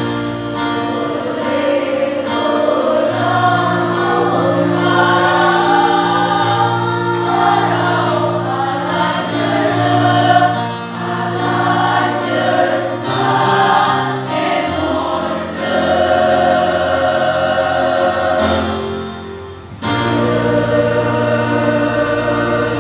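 School choir singing in parts, holding sustained chords over a steady low line; the sound thins and drops briefly near the end, then the full choir comes back in at once.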